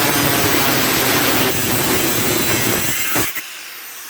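Power tool cutting through a steel bedframe rail, running loud and steady, then stopping abruptly about three seconds in as the cut is finished.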